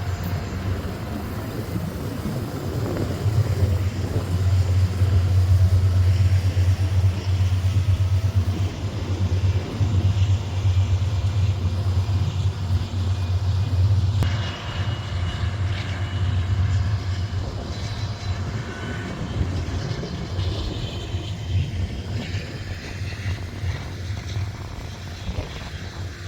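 A small engine running steadily with a strong low hum, its loudness swelling and easing; about halfway through the low hum weakens and the sound turns brighter.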